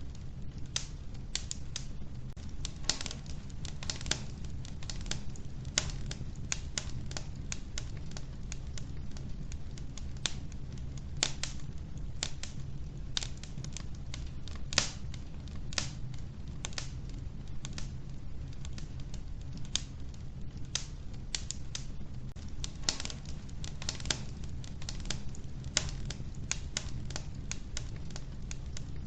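Wood fire in a wood-burning stove crackling: irregular sharp pops and snaps, a few louder than the rest, over a steady low rumble.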